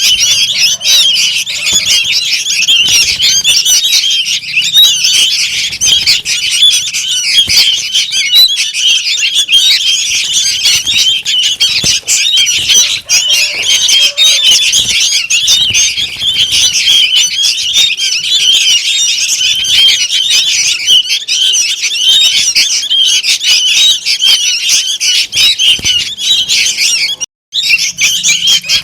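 A flock of young sooty-headed bulbuls calling noisily, a dense, unbroken chatter of quick high chirps used as a bird-trapping lure. It cuts out for a split second near the end.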